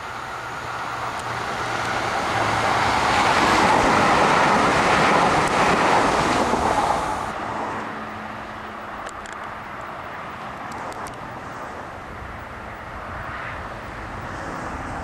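Class 405 4-SUB electric multiple unit running on the rails, its wheel and motor noise swelling to a peak a few seconds in and fading as it draws away. After an abrupt change about seven seconds in, a quieter train runs in the distance with a few light clicks.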